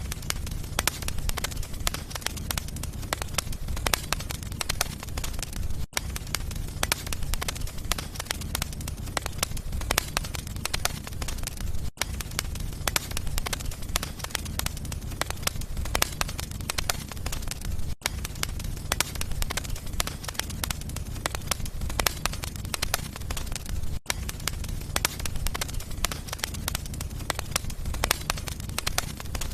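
Wood fire burning in a fireplace: dense, irregular crackling and popping over a steady low rumble, with a very brief dropout about every six seconds.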